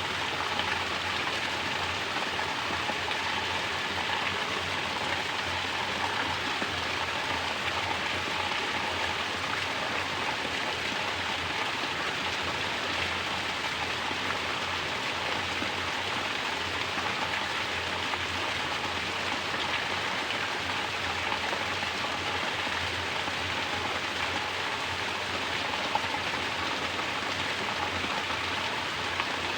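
Mountain water pouring down in a natural shower, splashing steadily without a break.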